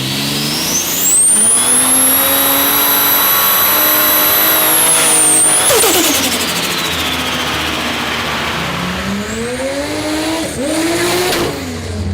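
Ford Barra turbocharged 4.0-litre straight-six revving, with a high turbo whistle that climbs and holds while the engine is on boost. About six seconds in comes a sharp rush of air as the throttle shuts. A second rev rises and falls near the end.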